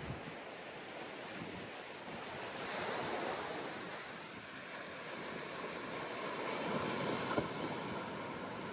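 Ocean surf on a beach: waves breaking and washing in, swelling louder about three seconds in and again near the end.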